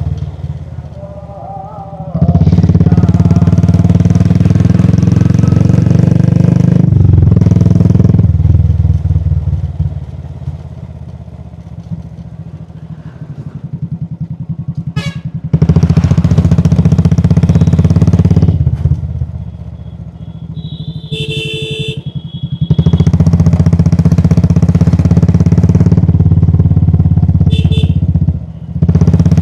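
Royal Enfield Classic 350's single-cylinder engine thumping under throttle, three times easing off to a quieter coast before pulling strongly again. A brief high-pitched tone sounds about two-thirds of the way through.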